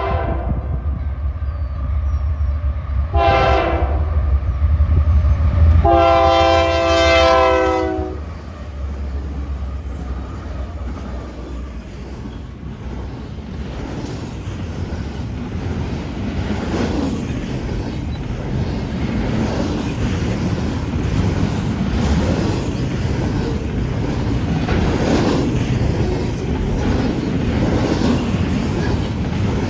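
Train passing: the locomotive's multi-tone air horn gives a short blast about three seconds in and a longer blast about six seconds in, over the heavy rumble of the engine going by. The railcars then roll past with a steady rumble of wheels on rail and a clacking over the rail joints.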